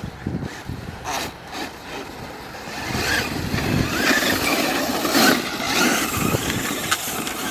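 Radio-controlled car being driven through mud, its motor revving up and down, louder from about three seconds in.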